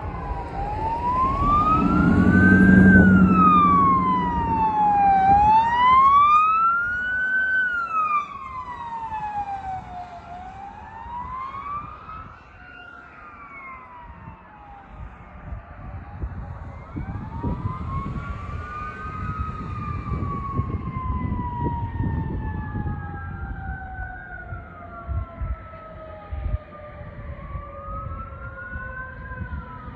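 Fire engine passing with its siren wailing, the pitch rising and falling about every five seconds, alongside the truck's engine rumble. It is loudest in the first few seconds, then fades into the distance. In the second half a second siren sweep overlaps it and a long tone slowly falls in pitch, like a mechanical Q siren winding down.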